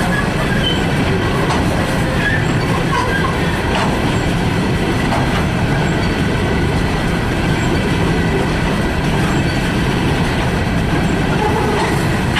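Freight train cars rolling past close by: a steady, loud rumble of steel wheels on the rails, with a few faint, irregular clicks.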